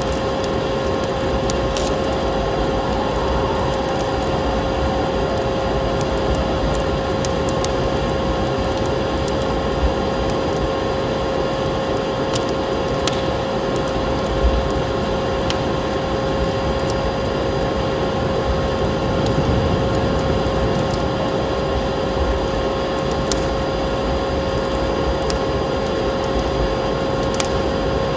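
Wood fire crackling in a fireplace, with scattered sharp pops over a steady rushing noise and a steady faint whistle-like tone.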